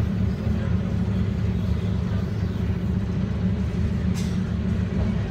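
Steady low rumble of a moving Toyama Chihō Railway train heard from inside the passenger car, with a brief hiss about four seconds in.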